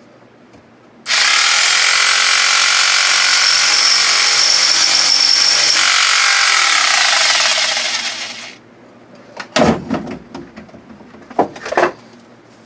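A small handheld power cutting tool runs at high speed for about seven seconds, trying to cut an opening in the car's sheet metal. It starts abruptly about a second in and winds down near eight seconds. A few sharp knocks and clatters follow. The tool is not up to the job: the bigger saw is needed next.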